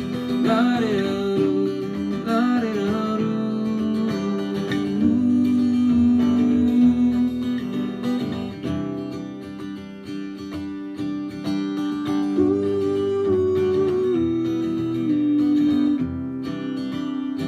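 Guitar played through a Traynor TVM15 amplifier in an instrumental passage: strummed chords under a melody of held notes that slide between pitches in places.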